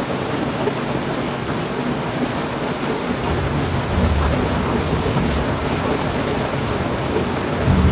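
Heavy rain falling steadily, with low rumbles swelling about halfway through and again near the end.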